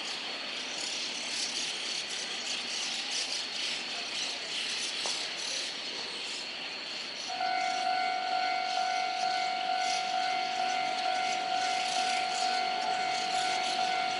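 Railway platform noise with a steady hiss. About seven seconds in, a steady high electronic tone starts and keeps sounding at one pitch.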